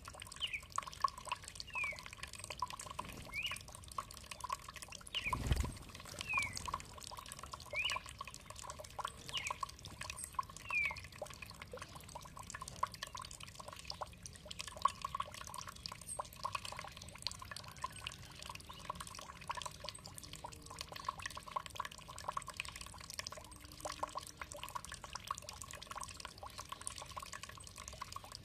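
Water trickling and dripping steadily. A bird gives short sliding whistled notes, about one a second, through the first third, and there is a low thump about five seconds in.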